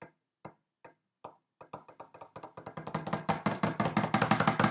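Wooden spoons tapping a small bongo drum, imitating rain. A few slow, light taps at first, then faster and louder until it is a rapid drumroll, the 'storm'.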